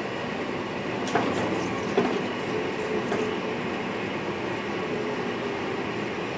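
NS VIRM double-deck electric train running along the track, heard inside the driver's cab as a steady rumble. A few sharp knocks from the wheels come about one, two and three seconds in.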